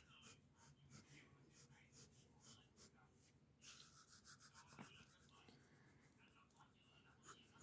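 Pencil sketching on paper: faint, short scratchy strokes at about two a second, with one longer rubbing stroke a few seconds in.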